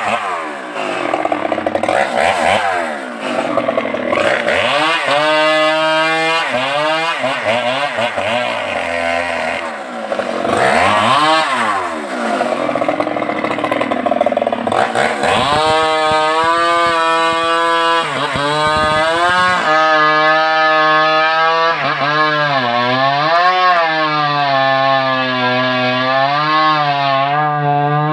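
Stihl MS381 two-stroke chainsaw running hard while cutting wood. Its pitch swoops down and back up several times in the first half, then holds a steadier high pitch with short dips.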